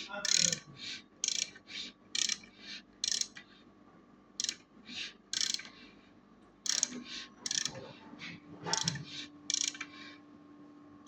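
Ratchet wrench clicking in short strokes, a burst every third of a second or so, pausing briefly twice, over a faint steady hum.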